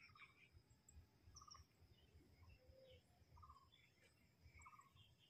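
Near silence: a faint outdoor background with a few short, distant bird chirps, each a quick trill, coming every second or so.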